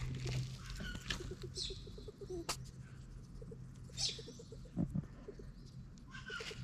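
Pet rat chirping in runs of quick, evenly repeated low pulses, with a few short high bird chirps and a steady low hum behind.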